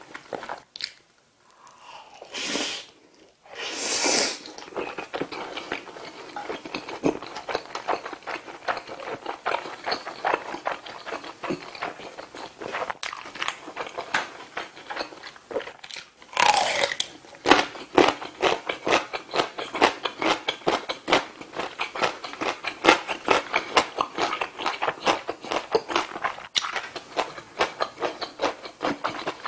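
Close-miked eating: wet mouth clicks and smacks while chewing, with two short hissing sounds near the start. About halfway through comes a loud bite, followed by a steady run of crunchy chewing.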